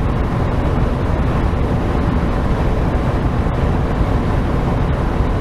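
Steady engine and road noise inside a semi-truck's cab on the move, heaviest in the low rumble, with a few faint clicks.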